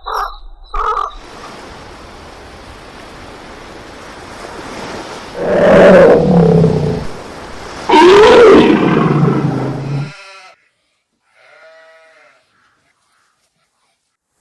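Two loud, drawn-out animal calls with a wavering, bending pitch, the second coming about two and a half seconds after the first, then a short, fainter call a few seconds later.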